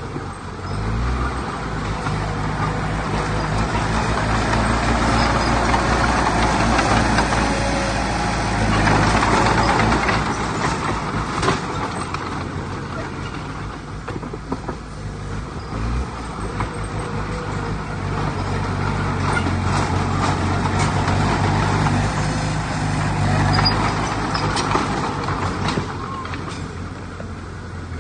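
Diesel engine of heavy earthmoving machinery running under load for a long stretch. The engine swells and eases in loudness, with a dense rumbling, grinding noise over it.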